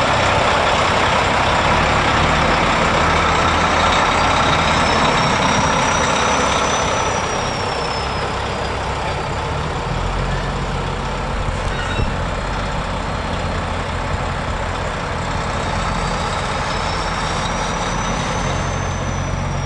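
Heavy trucks' diesel engines running steadily as they pass, louder in the first half. A faint high whine rises and falls twice.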